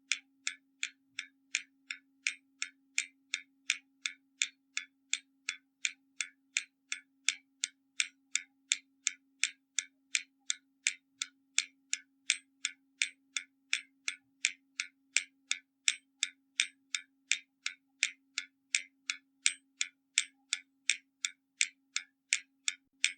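Hermle mechanical skeleton clock ticking steadily and evenly, a little over two ticks a second, as its escapement runs.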